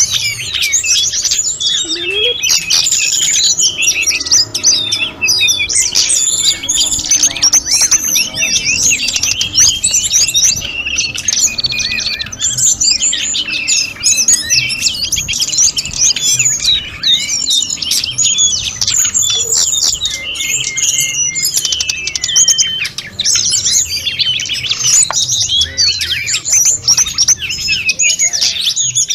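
Tledekan gunung (sulingan gunung) songbird singing its full, varied song: a dense, unbroken run of rapid high whistles, trills and chirps.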